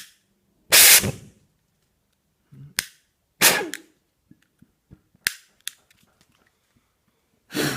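A sharp click, then fuel vapour in a glass spaghetti jar with a drilled lid ignites with a loud pop about a second in. Several shorter pops and puffs follow, with another near the end. The jar never settles into a steady pulsing run: the jar pulse engine attempt fails.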